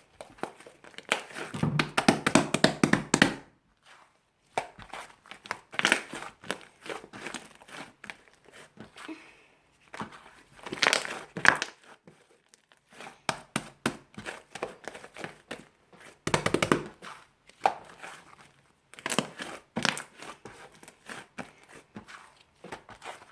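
Fluffy slime being squeezed and pressed by hand, giving repeated runs of crackling, popping clicks with short pauses between them.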